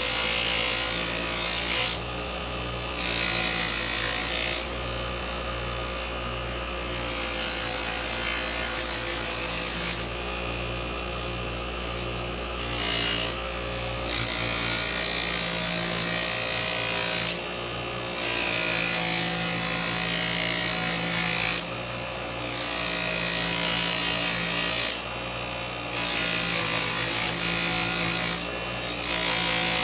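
Electric buffing wheel running steadily with polishing compound, a silver casting pressed against it in repeated passes, so a rubbing hiss rises and falls every few seconds over the motor's hum.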